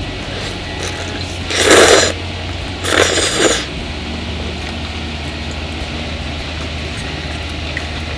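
Two short, loud scraping noises about a second apart, over a steady low hum.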